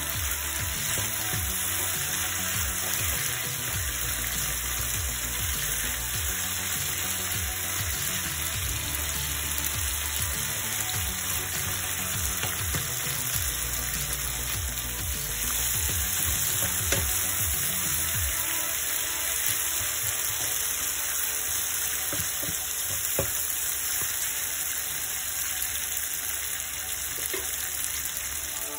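Mutton pieces sizzling steadily in oil in a nonstick frying pan as they are fried down dry, with the knocks and scrapes of a wooden spatula stirring them through roughly the first two-thirds, then only occasional light clicks.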